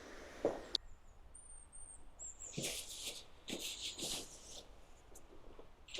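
A sharp knock and a click, then several short scuffing, rustling handling noises, with faint high bird chirps behind.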